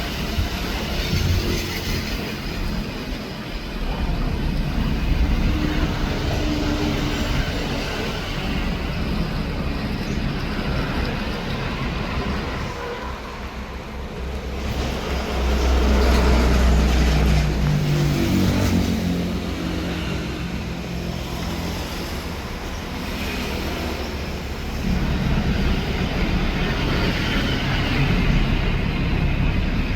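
Boat engine running steadily with a low drone that swells louder for a few seconds about halfway through.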